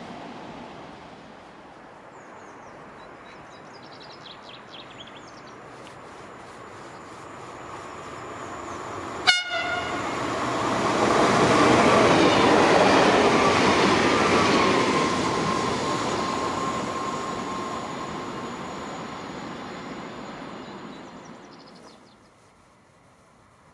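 A train approaches and passes, its rolling noise swelling to a peak and then fading away. Its horn gives one very short, sharp toot as it draws near.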